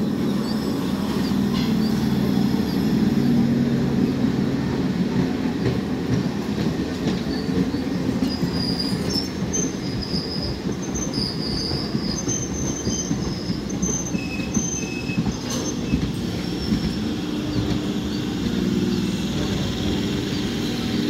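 Electric multiple-unit suburban local train rolling into the station, its coaches passing close by with a steady rumble of wheels on rails. Short high-pitched wheel squeals come in the middle, as it pulls in along the platform.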